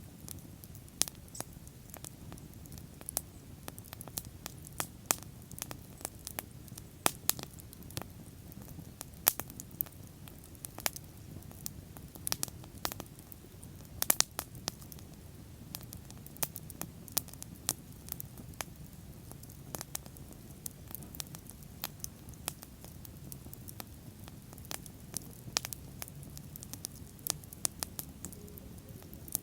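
Wood bonfire burning: irregular sharp crackles and pops over the steady low rush of the flames, with a quick cluster of pops about halfway through.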